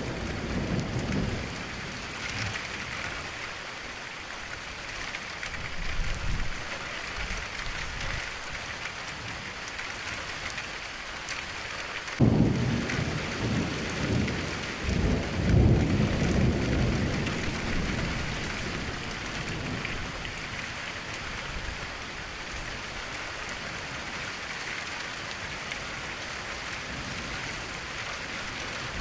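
Steady rain falling, with thunder: a low rumble at the start, a fainter one about six seconds in, and a sudden clap about twelve seconds in that rolls on for several seconds before fading, the loudest sound in the stretch.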